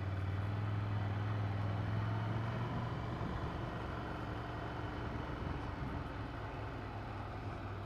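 Ducati Monster 797's air-cooled L-twin engine running steadily at low revs, with no revving.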